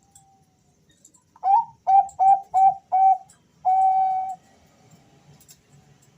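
Male zebra dove (Bangkok-type perkutut) singing its cooing song: five short coos in quick succession, then one longer held coo.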